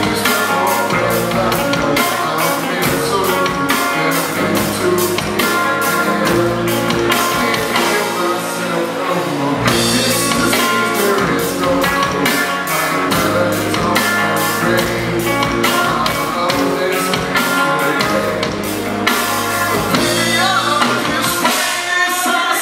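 Rock band playing live: drum kit keeping a steady beat under guitars and bass in an instrumental passage of the song.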